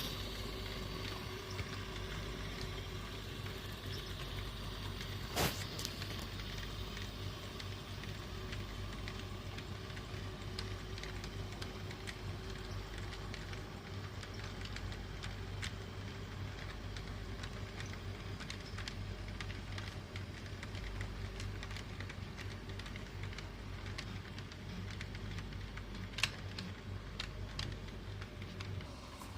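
HO-scale model train running on track: the Shay model's small electric motor and gearing give a steady faint hum, with light clicks from the wheels over rail joints, two sharper ones about five seconds in and near the end.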